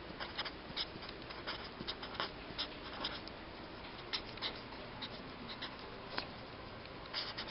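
Writing by hand: faint, irregular scratching and light ticks of a pen or marker moving across a surface.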